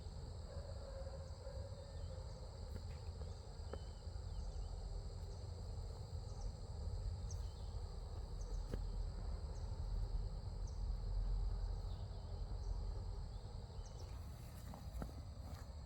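Steady chorus of crickets or other insects, with a low rumble underneath and a few faint clicks.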